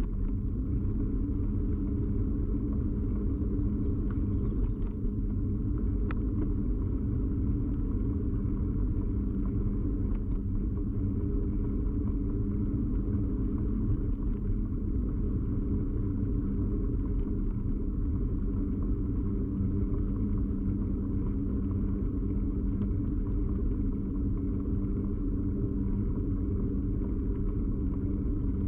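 Steady rumble and drone of a bicycle ride carried through a bike-mounted camera: tyre and frame vibration coming straight into the camera body, unchanging throughout.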